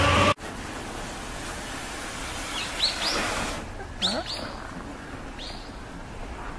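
Loud music cuts off abruptly just after the start. After it, outdoor ambience with small birds chirping: short high falling chirps in little clusters, about three times.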